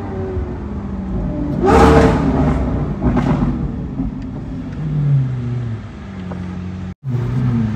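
Sports car engine running and revving, its pitch rising and falling, with a loud surge of revs about two seconds in.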